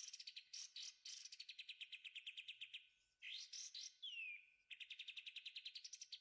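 Recorded bulbul song: a few sharp chirps, then fast trills of clicking notes at about ten a second, broken about three seconds in by chirps and a falling whistle before the trill starts again.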